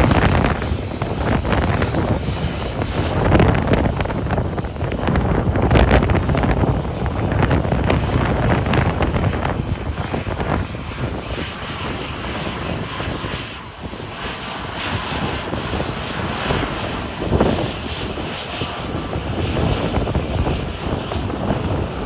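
Departing airliner's engines at takeoff power, a loud rumble that wavers and swells, with a higher whine in the second half.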